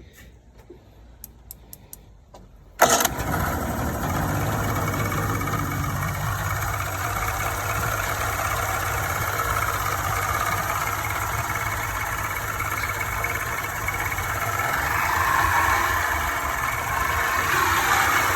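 Mercury 90 two-stroke outboard motor being started: a few faint clicks, then about three seconds in it fires abruptly and settles into a steady idle, running slightly faster near the end.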